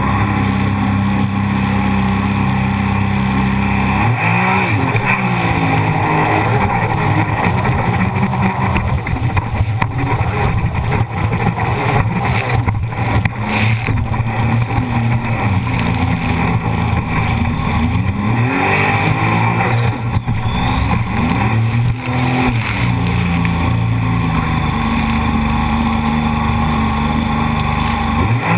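Jet ski engine running hard, its pitch swinging up and down several times as the throttle is opened and eased, over a constant rushing noise.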